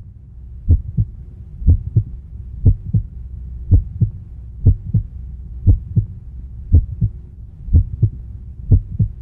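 Heartbeat sound effect: a low double thump, lub-dub, about once a second over a steady low hum.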